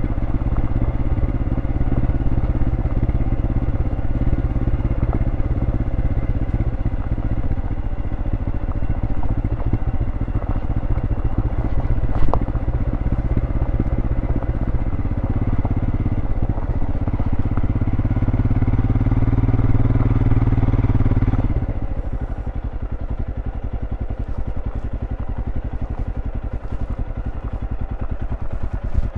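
Royal Enfield Scram 411's single-cylinder engine running under way through its stock exhaust. It pulls harder and louder for several seconds about halfway through, then drops suddenly to a quieter, steadier running as the throttle is closed, with one sharp tick partway through.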